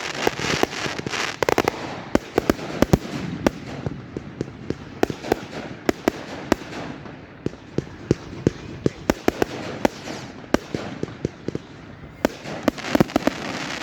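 Fireworks going off: a rapid, continuous string of sharp bangs and pops, with bursts of dense crackling in the first two seconds and again near the end.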